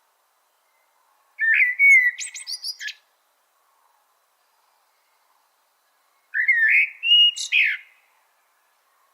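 A songbird singing two short phrases, each about a second and a half of whistled notes that slide up and down, ending in quicker, higher twitters. The first begins about a second and a half in, the second about six seconds in.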